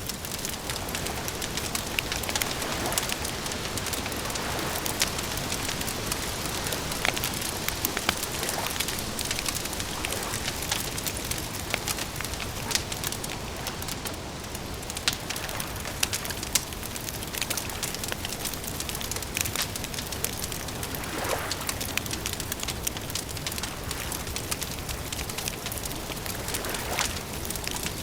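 Wood campfire crackling: a steady hiss with frequent sharp snaps and pops scattered through it.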